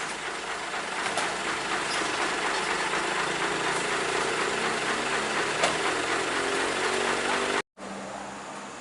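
Heavy truck engine running, with a dense rumble of mechanical noise and a pitch that rises slightly in the middle; it cuts off abruptly near the end, giving way to a quieter steady hum.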